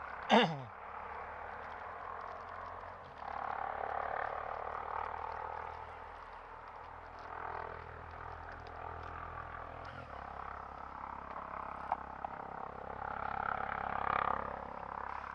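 Frogs calling, a chorus that swells and fades in waves, with one loud call sliding downward in pitch right at the start.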